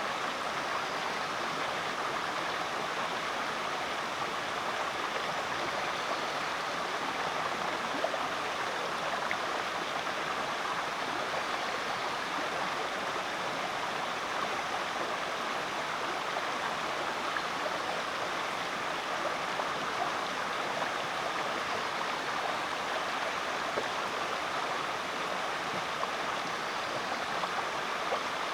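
Rainforest creek running over rocks: a steady, unbroken rush and babble of flowing water.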